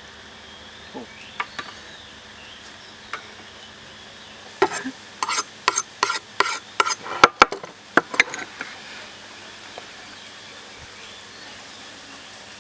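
Cooking utensils and dishes clinking: a quick run of about a dozen sharp knocks with a short ring over some four seconds in the middle, with a few single clicks before it.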